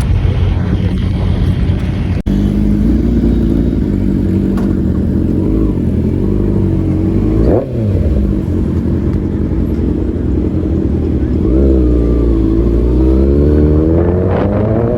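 Motorcycle engine running while riding, with a heavy low rumble. The sound breaks off briefly about two seconds in, and the engine pitch swoops once near the middle and climbs steadily near the end as the bike accelerates.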